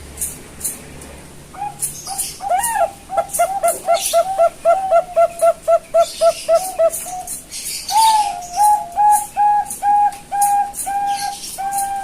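Young Bangkok-line zebra dove (perkutut) cooing: a quick run of short coo notes, about three a second, then from about eight seconds in a slower series of longer, drawn-out coos. Short high ticks sound alongside.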